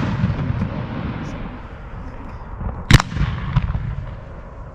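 Display-grade 1.3G fireworks going off: a low rolling rumble of bursts and their echo, broken about three seconds in by one loud sharp boom and a smaller crack just after.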